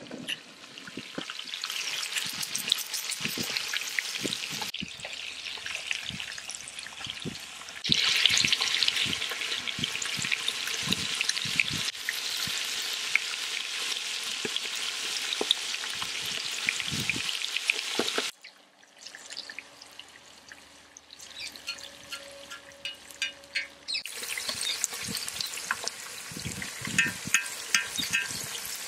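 Chicken pieces sizzling and crackling as they fry in hot oil, in several cut-together stretches. The sizzle drops away to a much quieter stretch for several seconds past the middle, then comes back.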